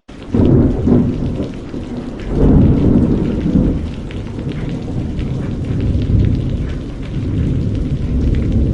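Heavy rain that starts suddenly, with two deep rolling rumbles of thunder in the first four seconds, then steady rain.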